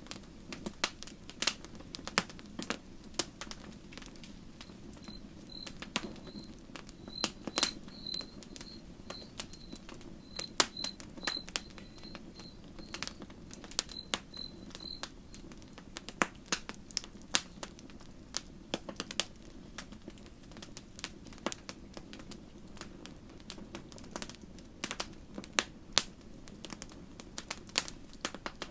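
Wood campfire burning: a steady low rush of flame under irregular sharp crackles and pops from the burning wood.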